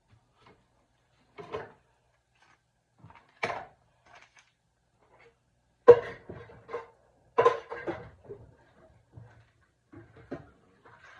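Kitchen clatter while a soup is put together: separate knocks and clanks of utensils, pots and containers, a few seconds apart, the loudest about six and seven and a half seconds in.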